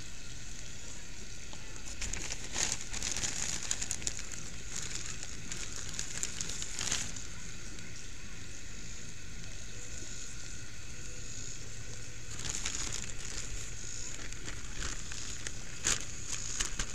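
Chicken legs frying in hot oil in a cast iron skillet: a steady sizzle with crackles. A plastic bag of flour crinkles a few times as flour is shaken over the chicken.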